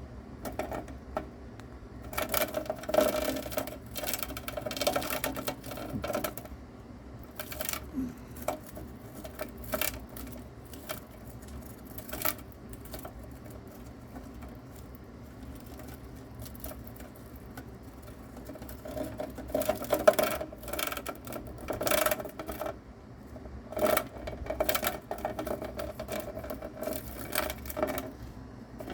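A mouse struggling with and eating a live cicada: irregular bursts of rapid clicking, scratching and rustling, with scattered sharp clicks.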